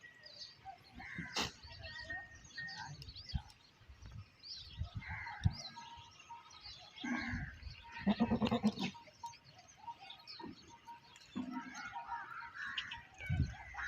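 Goat bleating: one loud, wavering call about eight seconds in, among fainter shorter calls. Small birds chirp and there are scattered knocks.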